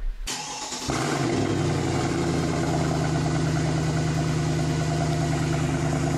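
Mercedes CLK DTM development car's M273 5.5-litre V8 engine coming up about a second in and settling into a steady idle.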